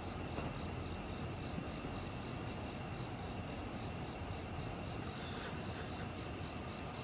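Steady rushing of a mountain stream flowing over rocks, an even hiss with no breaks.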